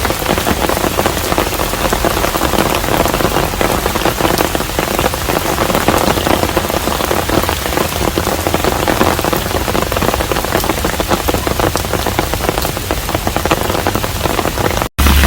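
Steady rain falling on a traditional Korean hanok, an even hiss thick with close patter of individual drops. It breaks off abruptly just before the end.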